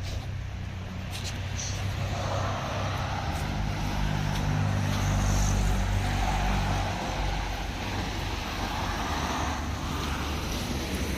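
A motor vehicle driving past on the street: engine hum and tyre noise swell to a peak about five seconds in, then fade.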